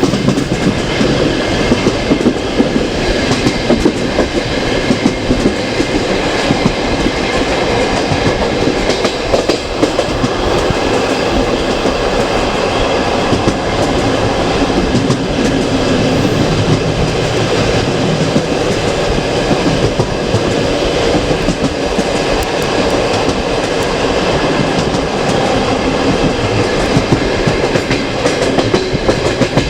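Passenger train carriage running along the track, heard from the carriage window: a steady, loud rumble of wheels on rails.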